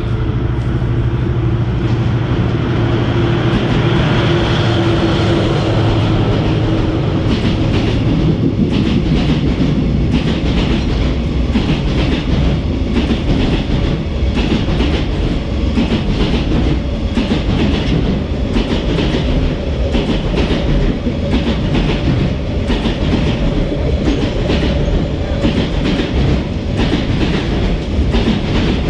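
Freight train passing through a station platform: a steady locomotive rumble with a held tone in the first few seconds, then a long, fast run of clickety-clack as the wagons' wheels cross the rail joints.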